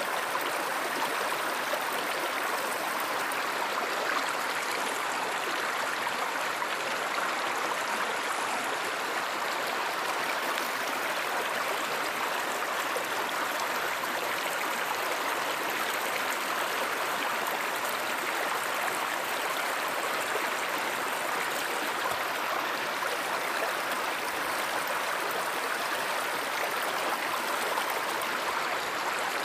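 Flowing river water, a steady even rushing that does not change.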